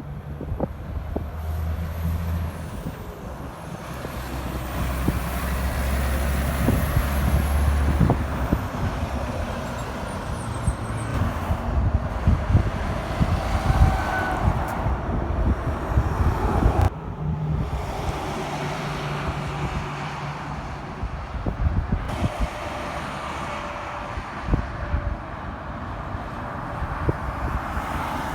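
Heavy diesel trucks driving past on a road: low engine drone and tyre noise, loudest in the first eight seconds, with the sound changing abruptly about two-thirds of the way through.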